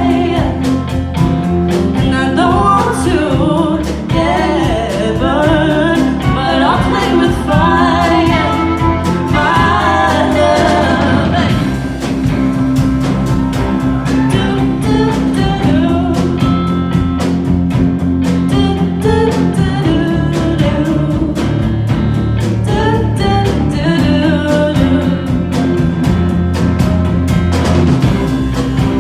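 Live pop band playing, with a singer's drawn-out vocal runs without clear words over the first twelve seconds or so. Then an instrumental stretch over a steady drum beat.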